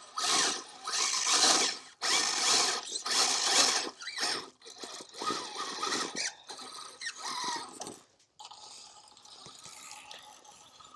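Axial SCX6 RC crawler driven in repeated bursts of throttle: a whirring electric motor and drivetrain with gritty scrabbling, about half a dozen surges of roughly a second each. It goes quieter after about eight seconds.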